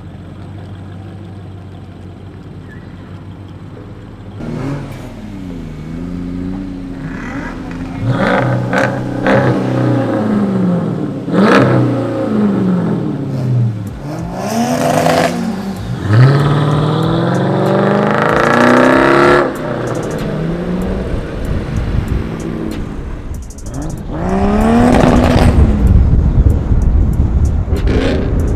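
Car engines revving and accelerating, the pitch climbing and falling again and again as the revs rise and drop. A louder, deeper stretch of hard acceleration comes near the end.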